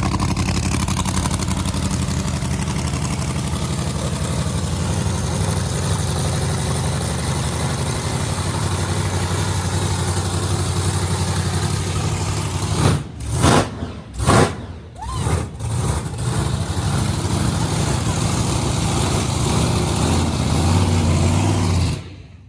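Loud car engine idling with a deep, pulsing exhaust rumble. A bit over halfway through come several short loud bursts, then the steady idle returns and cuts off abruptly near the end.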